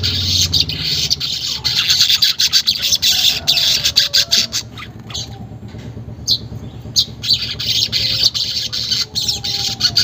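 Manyar weaver birds chattering: rapid, harsh, ticking and buzzing calls in a dense, continuous stream, easing briefly about halfway through.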